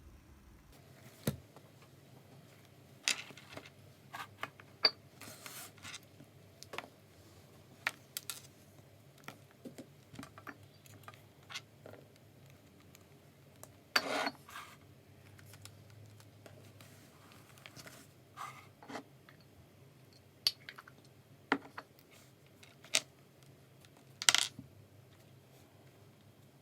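Irregular light clicks and taps of small objects being handled, a dozen or so spread out, with two louder, slightly longer ones about 14 seconds in and near the end.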